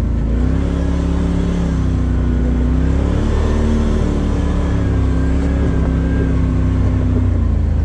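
Vehicle engine running while driving off-road, its pitch stepping up and down several times as the revs change.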